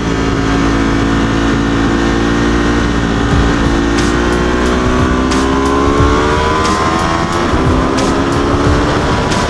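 Ducati 848 Evo's L-twin engine under way, its pitch sinking slowly as the revs ease for the first few seconds, then climbing steadily as the bike accelerates, with heavy wind rush over the microphone.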